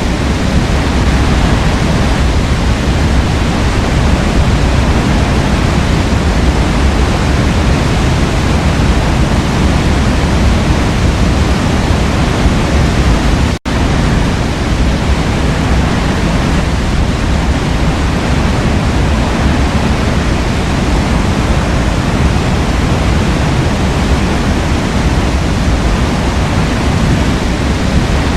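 Forest waterfall: water falling and rushing in a loud, steady roar that is heaviest in the low end. It cuts out for an instant about halfway through.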